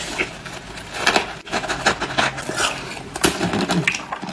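Close-miked chewing of frozen juice ice, a run of irregular crunches and cracks as the ice is bitten and ground.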